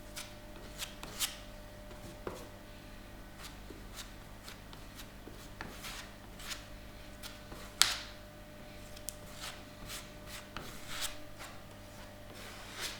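Handling noises: irregular small clicks and taps mixed with rubbing, with one sharper click about eight seconds in, over a faint steady hum.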